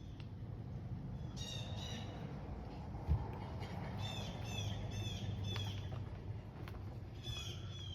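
A bird calling in three quick runs of short, falling chirps over a steady low hum, with one dull knock about three seconds in.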